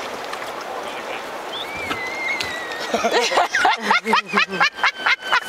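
A steady rushing noise of river water, then from about three seconds in people's voices chattering and laughing in quick bursts.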